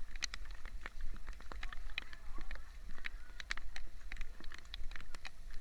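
Rain falling in irregular heavy drops, tapping and clicking sharply at uneven intervals over a steady low rumble.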